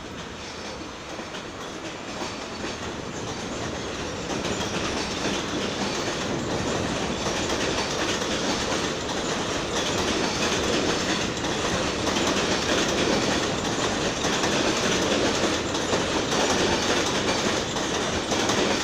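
R46 subway train running through, wheels clicking over the rail joints. It grows louder over the first few seconds, then runs steadily loud.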